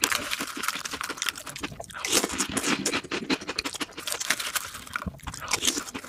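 Close-miked mukbang eating sounds, played at double speed: wet chewing and crunching of chocolate ice cream with a crunchy topping, with a wooden spoon scooping and scraping in a glass cup.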